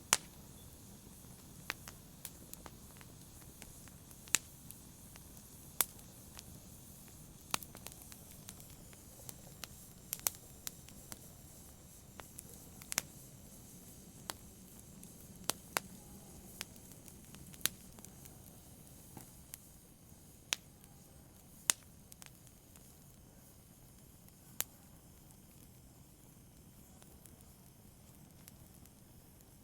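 Wood fire crackling in a fireplace: sharp, irregular pops and snaps over a low steady hiss, the pops thinning out in the last several seconds.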